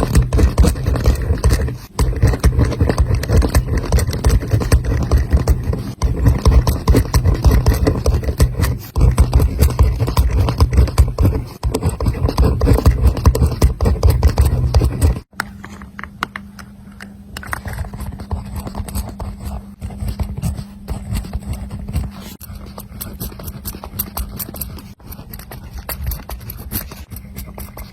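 Close-miked writing by hand: a pen scratching rapidly across paper in quick strokes. About halfway through it cuts abruptly to a quieter stretch of writing over a steady low hum.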